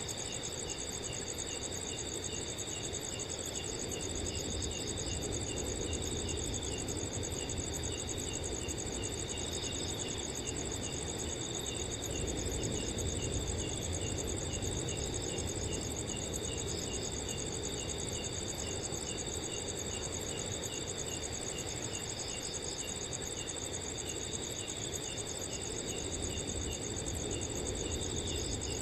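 Several crickets chirping at once, some in continuous high trills and one in quick, evenly repeated chirps a little lower. Beneath them a low rush of wind swells slightly about halfway through.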